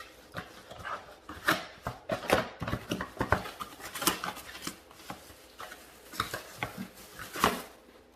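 Plastic vacuum-cleaner accessories and their packaging being handled out of the box: irregular clicks, knocks and rustles.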